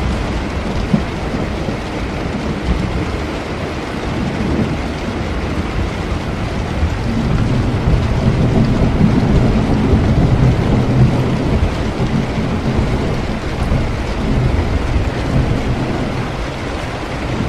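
Steady heavy rain, with a low roll of thunder that builds about seven seconds in and fades away toward the end.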